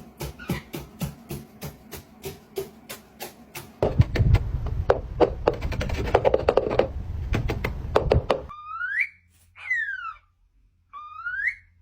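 A run of quick knocks at about three to four a second, then a few seconds of louder knocking and rustling. Near the end come two wolf-whistle-like pairs from a pet parrot, each a rising whistle answered by a falling one.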